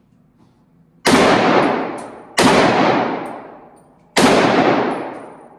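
Three gunshots from a firearm, spaced a little over a second and then nearly two seconds apart. Each has a long echoing tail.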